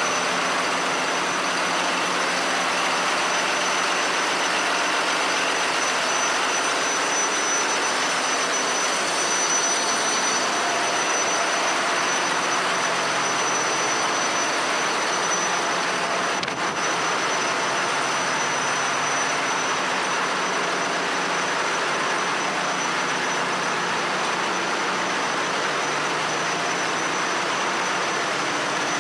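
Steady, loud roar of a ship's engine-room machinery, with a thin, high, steady whine above it.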